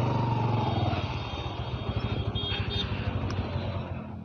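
Motorcycle engine running at low speed, its rapid even firing pulses growing weaker toward the end.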